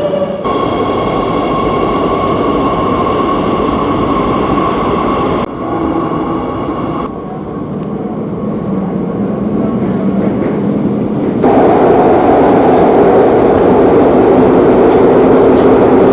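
Madrid Metro Line 8 train running, a dense rumble with a steady electric whine over it, heard in several abruptly cut stretches, loudest in the last few seconds.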